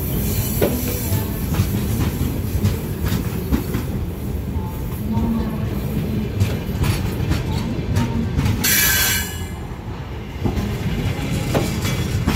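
Passenger coaches of an arriving train rolling past on the track: a steady low rumble with wheels clicking over rail joints. A brief high hiss comes about three-quarters of the way through.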